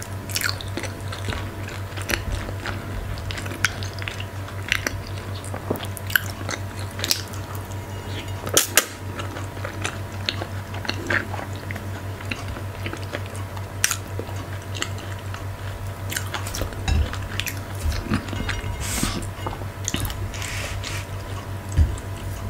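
Close-miked chewing and mouth sounds of someone eating fufu and okra stew by hand, with a scatter of short clicks throughout. A steady low electrical hum runs underneath.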